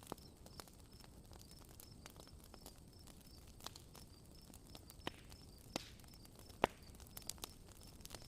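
Campfire crackling, with sharp pops scattered through it, the loudest a bit past halfway. Under it, a faint high chirp repeats evenly about three times a second.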